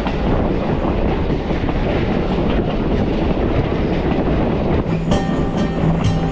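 Passenger rail car rolling along the track: a steady rumble with faint clatter of wheels on the rails. Music comes in about five seconds in.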